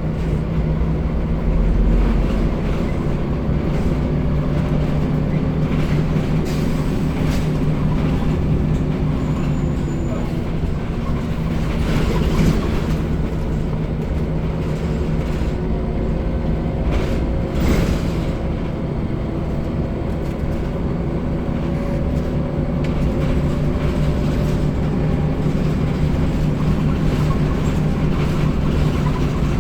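Scania L94UB/Wright Solar single-decker bus under way: a steady engine drone with road noise and occasional knocks and rattles from the body.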